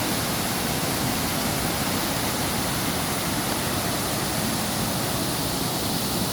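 Waterfall rushing steadily, an even wash of falling-water noise with no breaks.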